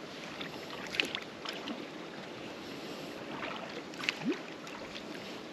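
Steady wash of wind and water around a small fishing boat, with a couple of light clicks and knocks, one about a second in and another about four seconds in.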